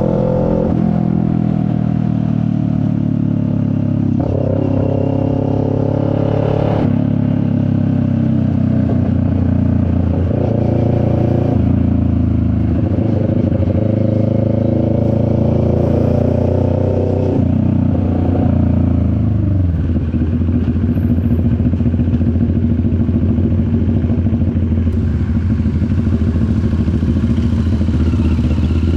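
CFMoto 400NK motorcycle's 400 cc parallel-twin engine running under way. Its pitch climbs and drops back several times as the rider shifts through the gears.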